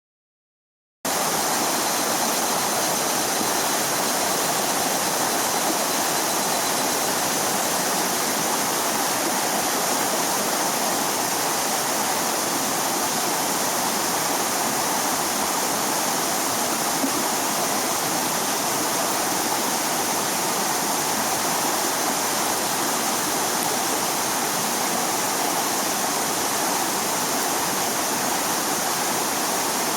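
Steady rushing of flowing water, like a stream, starting abruptly about a second in.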